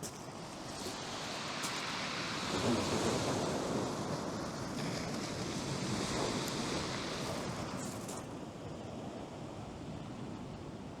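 Surf breaking on the beach, with strong wind buffeting the microphone; the gusting eases a little about eight seconds in.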